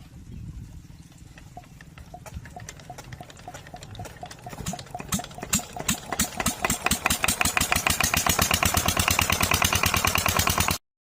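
Old stationary diesel engine starting up: slow, uneven firing beats pick up speed and grow louder over several seconds, then settle into a fast, even running beat.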